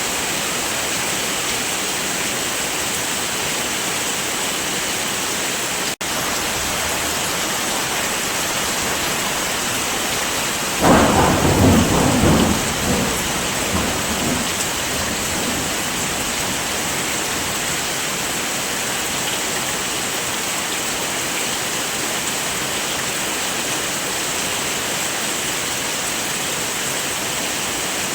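Steady heavy rain with a clap of thunder about eleven seconds in that rumbles away over a few seconds.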